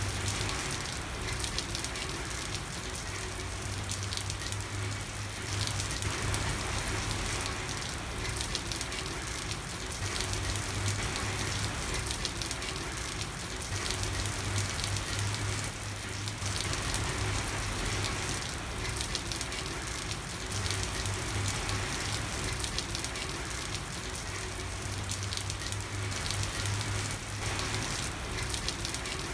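Steady rain falling on a street, a dense patter of drops, with a low hum that comes and goes underneath.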